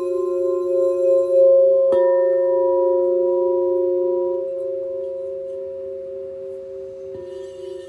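Crystal singing bowls ringing together in long, overlapping steady tones that waver slightly. A bowl is struck again about two seconds in and another near the end, adding fresh tones over the fading ones.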